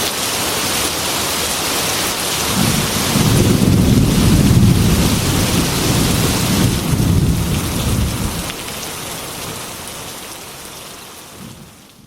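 Heavy rain beating on window glass, with a rolling thunder rumble that swells a couple of seconds in and dies away about six seconds later. The rain then fades out.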